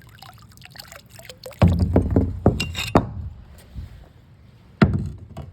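River water splashing and pouring off a glass bottle as it is lifted from the water and handled, in a busy run of splashes about halfway through and one sharp splash near the end.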